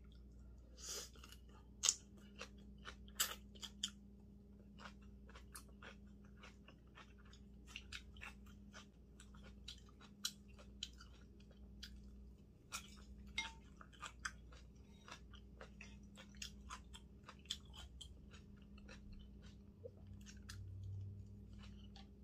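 A person chewing fresh napa-cabbage kimchi, with many short crisp crunches and mouth clicks throughout, over a low steady hum.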